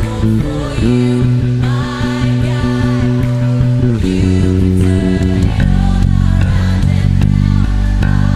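Band music: a worship rock song with electric bass guitar, guitars and sustained chords, the chord changing a few times.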